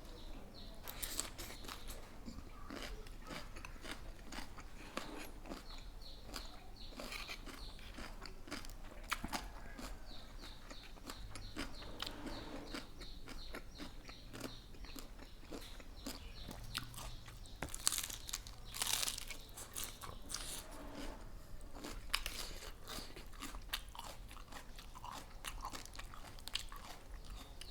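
Close-up chewing and crunching of mouthfuls of spicy Thai mixed salad (tam pa) and crisp vegetables, with irregular crackling bites; the loudest crunches come a little past the halfway point.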